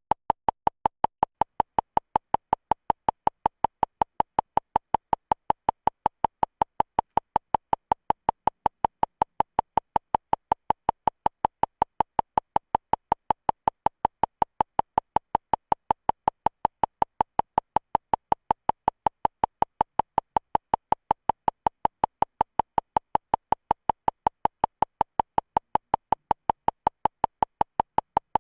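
Rapid electronic beeping: short beeps of one unchanging high pitch, about four a second, repeating steadily without a break.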